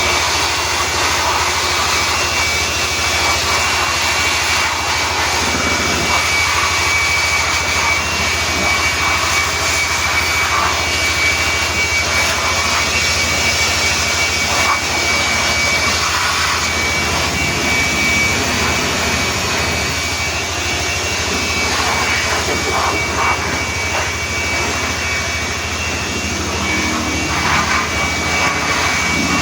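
Car-wash machinery running steadily: a loud, unbroken rush of air or water with a constant high whine and a low hum underneath.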